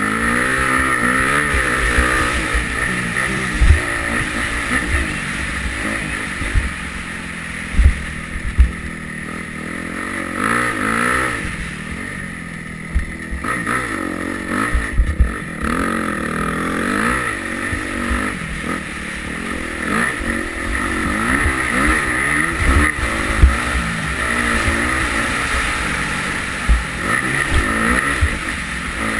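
Yamaha YZ250F single-cylinder four-stroke motocross engine revving up and dropping back again and again as the bike is ridden around the track, with short low knocks every few seconds.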